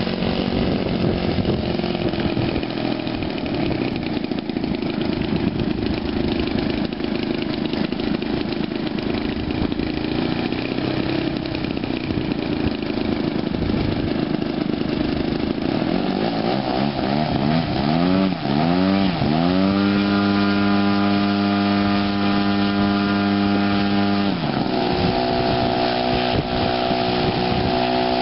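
Engine of a giant-scale RC Extra 330L model airplane running on a ground test. It runs unevenly at low to mid throttle, then about two-thirds through revs up to a high, steady pitch. The revs drop briefly, then climb again near the end.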